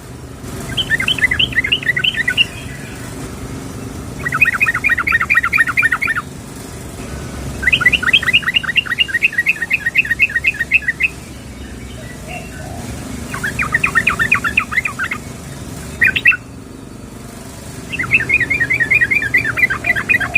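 Yellow-vented bulbul (trucukan), a female calling to a male, singing a series of rapid bubbling phrases of quickly repeated notes, each a second or two to over three seconds long, separated by short pauses, over a low steady background noise.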